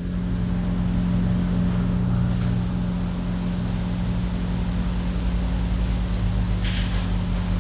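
An engine idling steadily with an even hum, and a short hiss about seven seconds in.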